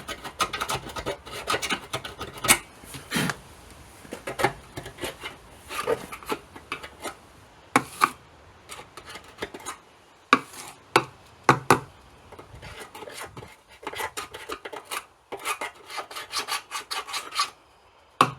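Hand scraper scraping road oil and grease undercoating off steel corners, in irregular strokes, some in quick runs, with short pauses between.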